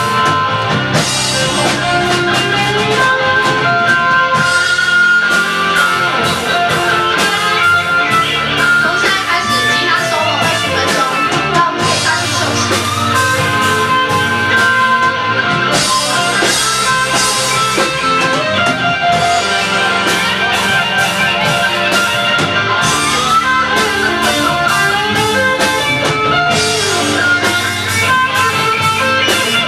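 Rock band playing, with guitar over a drum kit.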